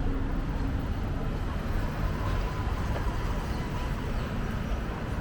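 Steady city street ambience: a low rumble of traffic with faint voices mixed in.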